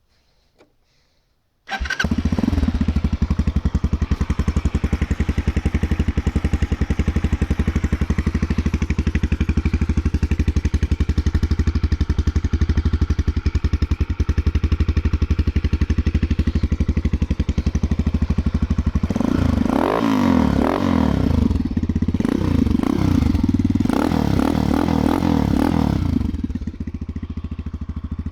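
Bashan BS 200 quad's engine with a straight-through exhaust. It comes in suddenly after a second or two of silence and runs steadily with a fast, even beat. It is then revved up and down several times before dropping to a quieter idle near the end.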